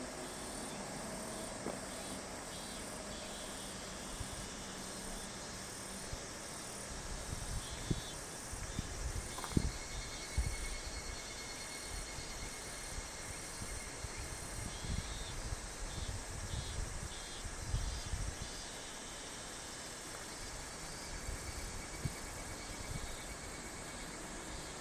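Higurashi (evening cicadas) calling in pulsing phrases that come and go over a steady outdoor hiss. Irregular low thumps and rumbles cluster in the middle, the loudest about ten seconds in.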